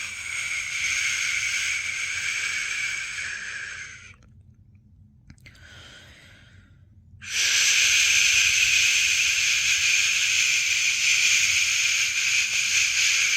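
A person's long, steady 'shhh' shushing sound, the white-noise shush used to settle a newborn to sleep. It breaks off about four seconds in and is faint for about three seconds, then resumes louder.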